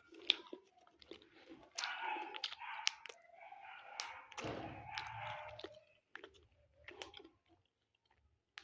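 Pet parrot making soft, mumbled sounds with scattered sharp clicks from its beak.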